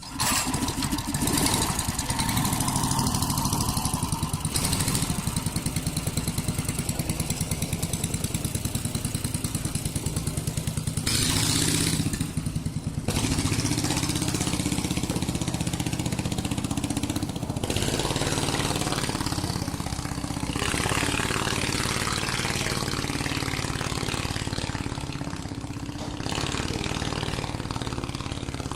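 An engine running loudly and steadily with a fast, even beat. A short hiss rises over it about twelve seconds in.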